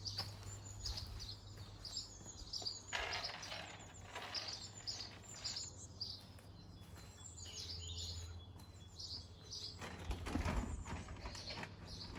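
Small garden birds chirping and twittering in quick repeated high calls, with a few short bursts of rustling handling noise in between.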